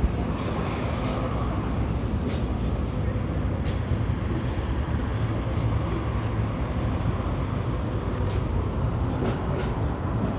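Steady low rumble of a moving vehicle, with faint scattered ticks.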